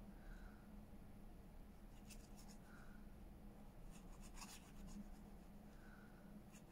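Near silence: room tone with a low hum and a few faint scratchy clicks of paper being handled, in small clusters about two seconds and four seconds in.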